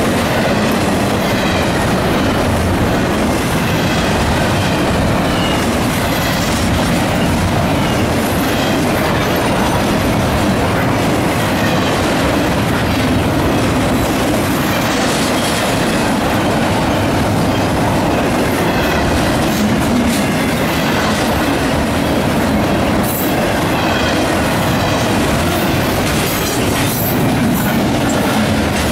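Double-stack intermodal well cars of a fast freight train rolling past close by: a loud, steady rumble of steel wheels on rail with scattered sharp clicks, more of them near the end.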